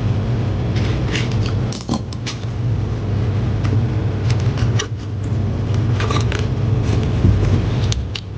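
Scattered small clicks and scrapes of parts being handled on a workbench, over a steady low hum.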